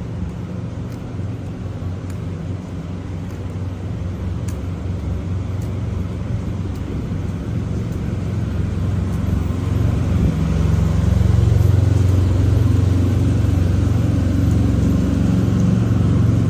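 Semi truck's diesel engine running with a steady low drone, growing louder over the second half.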